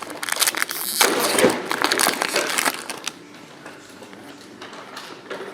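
Trading-card pack wrapper crinkling and crackling as it is handled and torn open, a dense burst lasting about three seconds that then dies away.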